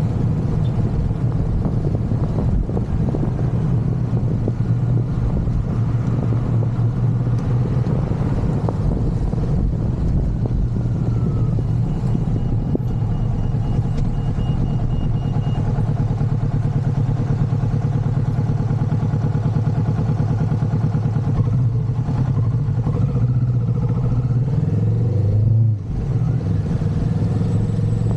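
Motorcycle engine running steadily under way. Its note shifts gradually, then drops briefly and picks back up near the end.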